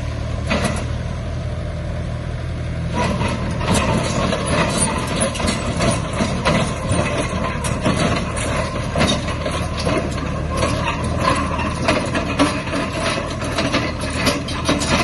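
Heavy diesel engine of an earthmoving machine running steadily; from about three seconds in, rapid metallic clanking and rattling joins it.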